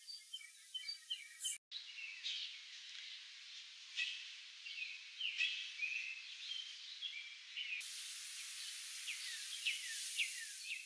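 Faint birdsong: many short chirps and quick falling notes over a thin outdoor hiss. A steady high hiss comes in about eight seconds in.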